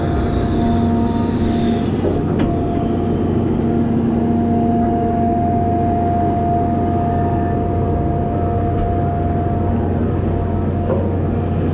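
Volvo A25G articulated haul truck's diesel engine and drivetrain running steadily, with a steady whine on top.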